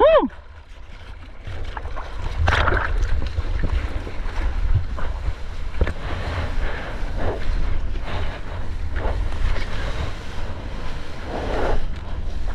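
Wind buffeting an action camera's microphone over the steady wash of ocean surf, with water swelling and sloshing now and then.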